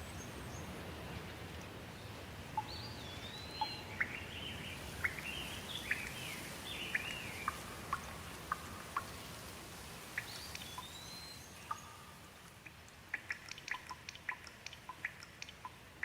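Steady rain, with a bird calling in short chirping phrases through the middle. Near the end the rain hiss drops a little, and many separate raindrops or drips tick sharply.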